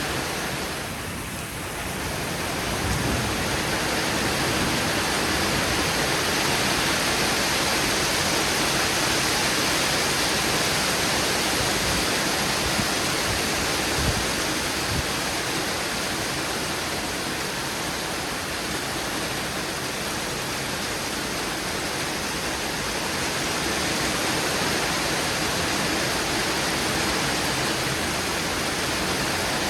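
Heavy thunderstorm rain pouring down in a steady, even rush, with a couple of faint ticks around the middle.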